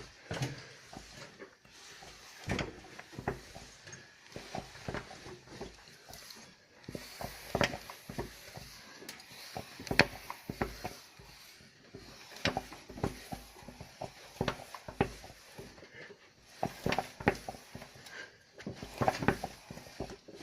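Nissan Terrano's VG30 3.0-litre V6 engine running, with irregular sharp clicks and knocks coming through at uneven intervals.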